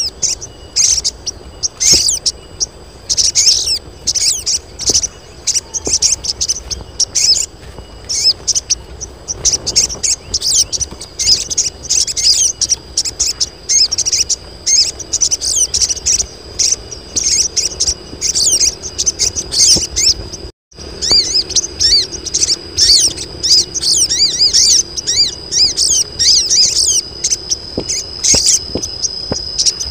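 A group of female sogon birds calling in heat: dense, overlapping rapid high chirps and twitters, with a thin steady high tone underneath in the second half and a brief break about two-thirds through.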